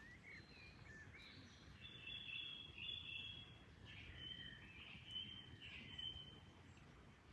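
Birds singing faintly: a few short rising chirps, then a run of clear whistled notes in the middle, over a faint steady low background noise.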